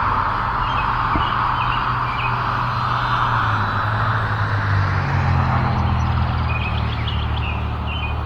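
Wind blowing steadily on the microphone, with a few small bird chirps about a second in and again near the end.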